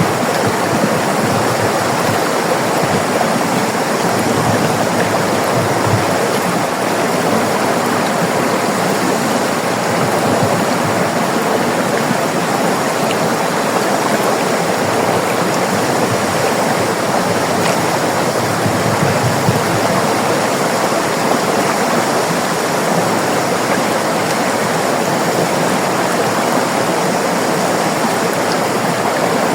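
River water flowing, a steady even rush with no breaks or pauses.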